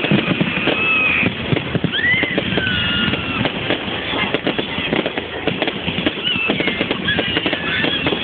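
Fireworks crackling densely, with thin whistling tones gliding up and down above the crackle.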